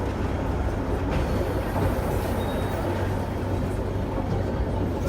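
Hong Kong double-decker tram running along its rails, heard from on board: a steady rumble with a constant low hum.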